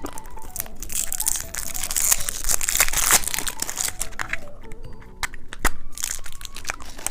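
Plastic candy wrapper crinkling and crackling as it is handled and torn open, with scattered sharp crackles.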